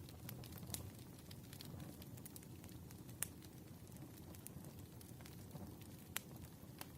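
Wood fire burning, with a low steady rumble and scattered crackles and sharp pops, the loudest about three seconds in and again just after six seconds.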